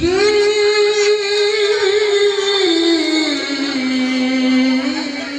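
A Quran reciter's voice drawing out one long melodic note in the ornamented tilawah style. It holds steady for about three seconds, then steps down and carries on at a lower pitch.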